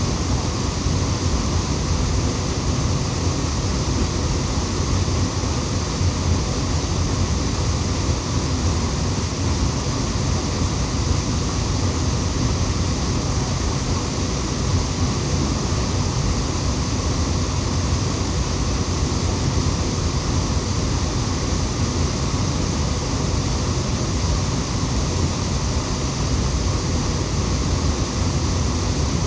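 Waterfall pouring steadily: an even, unchanging rush of water, heaviest in the low end.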